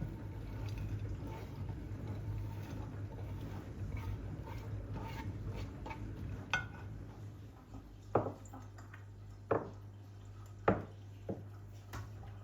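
Kitchen dishes and utensils clinking and knocking, about six separate knocks in the second half, over a steady low hum.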